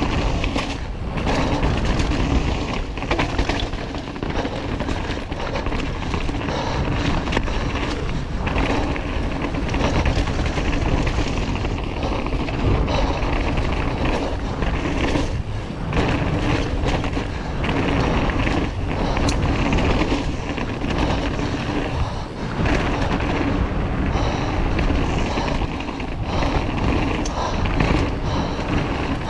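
Mountain bike riding down a wet trail: wind rushing over the microphone, tyre noise and the bike rattling, with frequent knocks over bumps.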